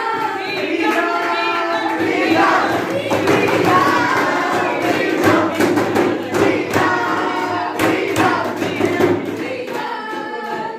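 A group of young people singing a song together in chorus, with sharp claps scattered through it.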